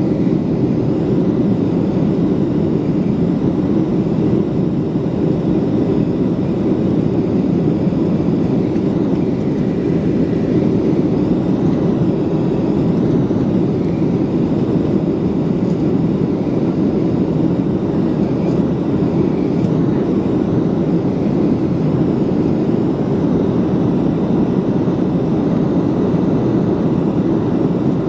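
Jet engines of a Gol Boeing 737 airliner running steadily, heard from inside the cabin as an even, unbroken noise centred low, with no change in pitch.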